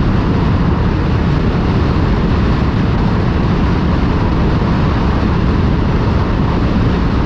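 Motorcycle running steadily at cruising speed, with heavy wind rush over the microphone.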